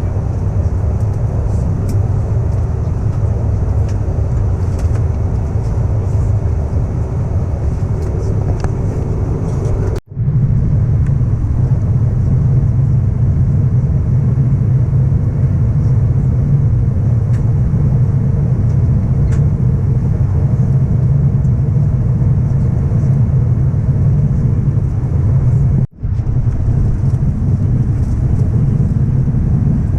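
Airbus A319 cabin noise on the approach: a steady deep rumble of engines and airflow. It is split into three pieces by sudden cuts about ten seconds in and near the end, and the rumble is heavier after the first cut.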